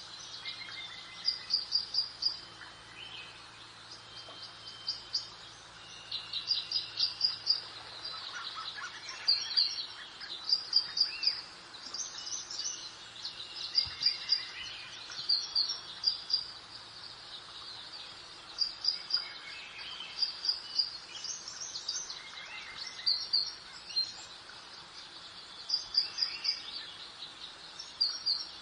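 Several birds singing in a garden chorus: short, high chirping phrases repeat every second or two over a faint steady background hiss.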